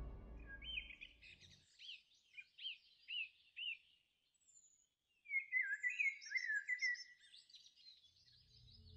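Small birds chirping: a series of short, quick chirps, then a busier flurry of calls about five seconds in, while low music fades out at the start.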